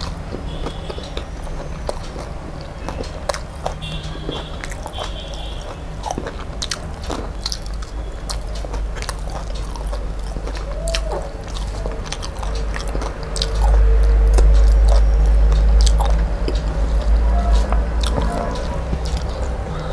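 Close-up mouth sounds of a person chewing bitter gourd curry and rice, with many short wet clicks and smacks. About two thirds of the way in, a deep low rumble rises for about three seconds.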